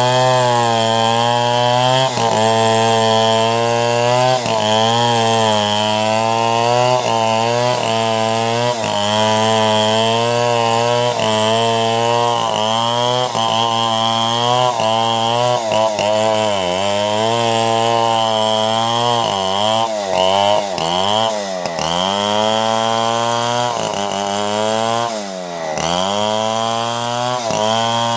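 Chainsaw engine running under load while ripping timber into planks. Its pitch sags and recovers every second or two as the cut loads it, with a few deeper drops in revs near the end.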